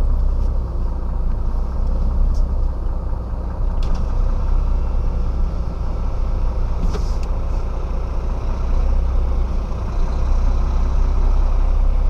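Diesel engine of a 26-tonne Renault rigid truck running steadily at low revs, heard from inside the cab, with a few short clicks.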